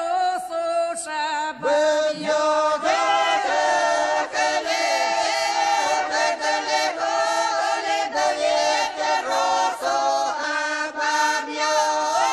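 Choral singing used as background music: several voices sing together in sustained, gliding phrases.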